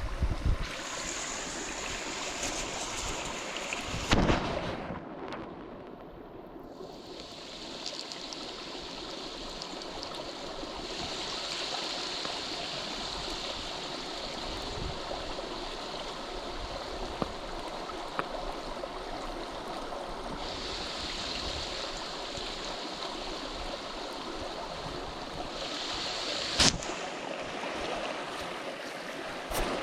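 Mountain stream running: a steady wash of flowing water. Its sound changes abruptly about four seconds in and again near the end, with a few faint knocks.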